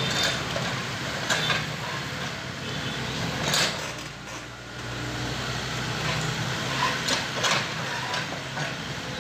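Excavator's diesel engine running steadily, with several sharp metallic clanks and knocks from the machine's working parts.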